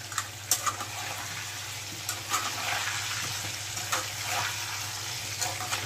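Potato pieces sizzling as they fry in hot oil in a steel kadai, with a few clinks and scrapes of a utensil against the pan as they are stirred.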